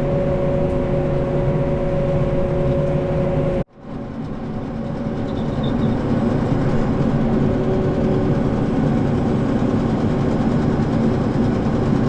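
Tractor engine running steadily under load while pulling a baler through a straw field. The sound cuts out abruptly about four seconds in, then fades back up to the same steady running.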